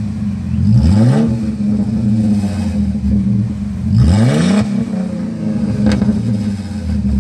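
1998 Chrysler Concorde's V6 idling through a straight-piped exhaust with the muffler and resonator deleted, blipped twice, about one and four seconds in, with a quick rise and fall in pitch each time. A short sharp click about six seconds in.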